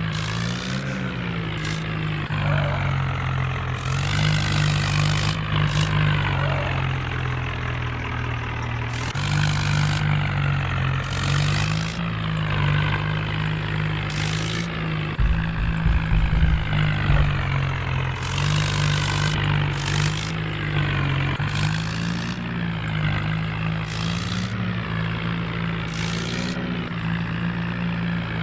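Tractor engine running steadily, its pitch drifting slightly up and down, with a few low knocks about halfway through.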